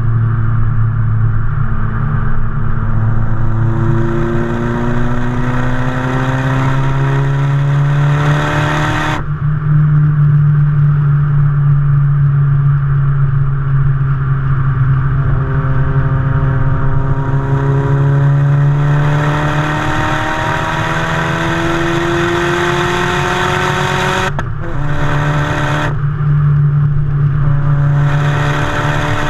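Exhaust of a Mazdaspeed3's turbocharged 2.3-litre four-cylinder with a big Garrett GTX3071 turbo, pulling hard. The engine pitch rises steadily for several seconds, then cuts off sharply when the throttle is lifted. This happens twice, with a short burst of throttle and another climb near the end.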